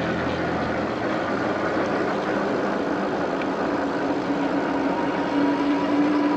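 Wind rush and road noise from a SUPER73 electric bike ridden fast. In the second half a steady whine comes in and rises slightly in pitch.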